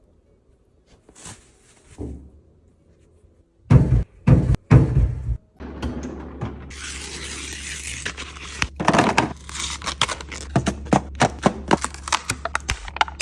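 Snack items being handled while restocking a fridge: a few faint clicks, then three heavy thunks as things are set down, followed by a run of clicks, crinkles and clatter of packaging and containers over a low steady hum.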